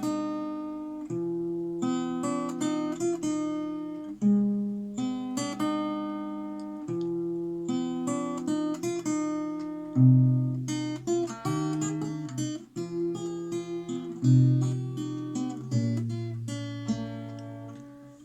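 Acoustic guitar playing an instrumental interlude: picked and strummed chords over a low note that changes every one to three seconds.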